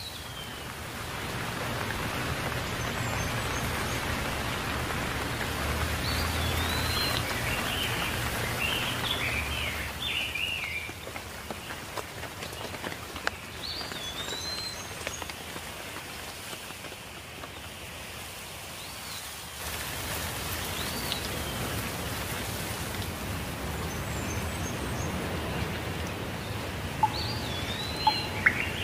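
Steady rain falling, with birds chirping briefly now and then over it. The rain is heavier for the first ten seconds or so, eases off, then picks up again about twenty seconds in; a few sharp ticks come near the end.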